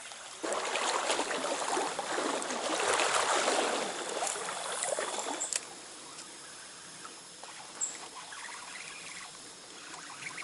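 Trout stream water running, with loud splashing in the water from about half a second in that stops abruptly about five seconds later.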